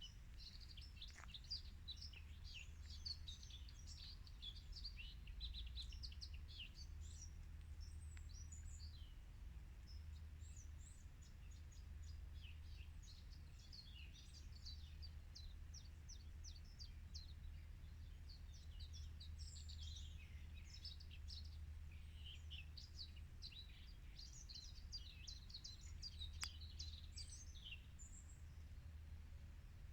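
Many small birds chirping and singing together in quick, high notes, over a faint low steady rumble.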